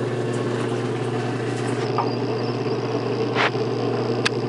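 56-year-old Maytag wringer washer's electric motor running with a steady hum, its wringer rollers just switched on to wring the load. A couple of sharp clicks come near the end.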